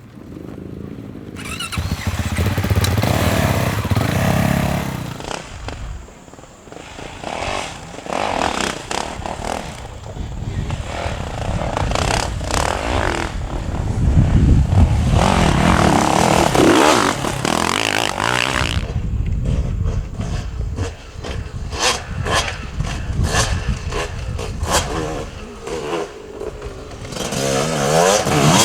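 Enduro dirt bike engines revving hard and easing off as the bikes ride past in several loud swells, the pitch rising and falling with the throttle.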